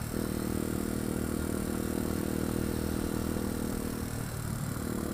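Pit bike's small single-cylinder engine running under way at steady revs. There is a brief dip in the engine note right at the start, and the revs fall and pick up again about four seconds in.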